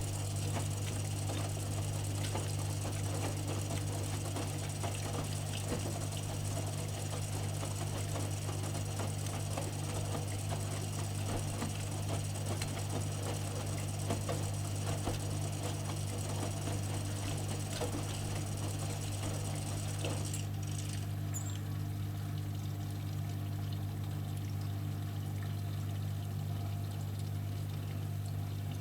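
AEG Öko-Lavamat 85769 front-loading washing machine running with a steady low hum, water rushing and splashing inside it. About twenty seconds in the rushing-water sound drops away, leaving the hum.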